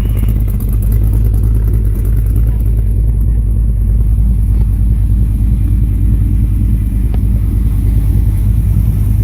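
Car engine idling, a loud, deep, steady rumble.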